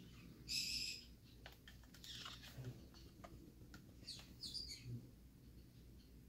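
Scattered high, short chirps from a small pet bird, with a louder brief hissy burst about half a second in and a few light clicks.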